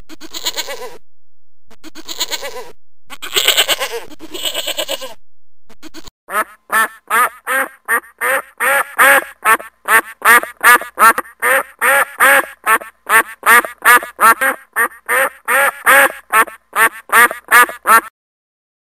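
A few bleats, then a duck quacking in a long run of short repeated quacks, about two or three a second, that stops abruptly near the end.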